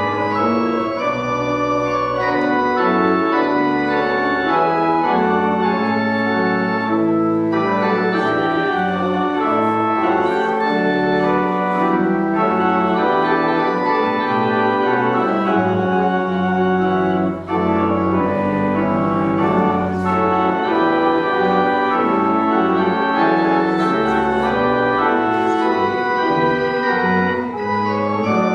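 Church organ playing a slow piece of sustained chords that change every second or so.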